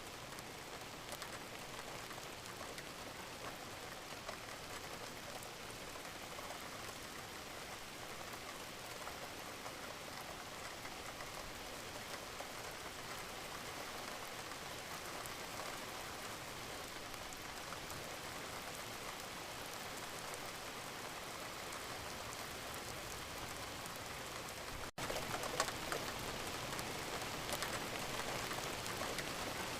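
Wood fire crackling steadily with many small pops and snaps. It drops out for an instant about 25 seconds in, then comes back a little louder with denser crackling.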